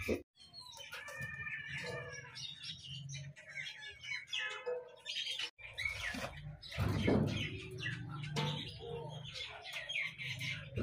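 Small birds chirping over a low steady hum, in many short rapid chirps; the sound cuts off abruptly for a moment about halfway through.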